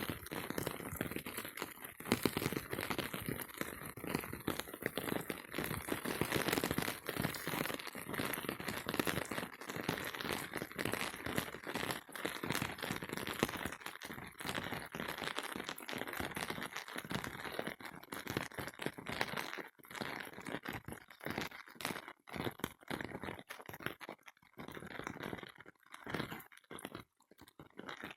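Rain falling on a surface, a dense stream of small hits that thins in the last few seconds into separate drops.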